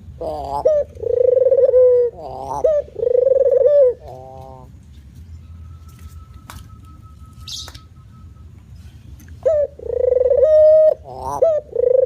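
Male puter dove (Barbary dove) cooing its full song phrase: a run of low coos, then a pause of several seconds, then the phrase starting again about three-quarters of the way through.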